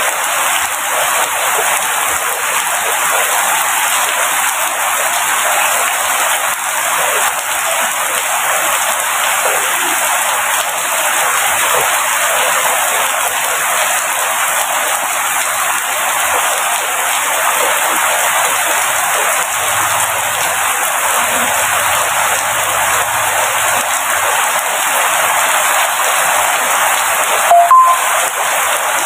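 Steady heavy rain falling, a dense, even hiss of drops. A brief, sharp, louder tap or click sounds about a second and a half before the end.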